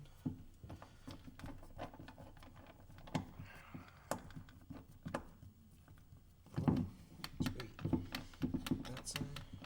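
Irregular light clicks, taps and knocks of hand work on a small wheel: Allen screws being fitted through the two rim halves and turned in, with a brief scrape a little after three seconds and a busier run of clicks and knocks near the end.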